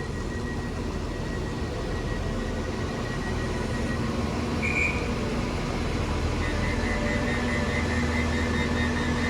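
Steady hum of a Class 390 Pendolino electric train standing at the platform, its onboard equipment running, with a brief high chirp about halfway through and a warbling high tone joining about two-thirds of the way in.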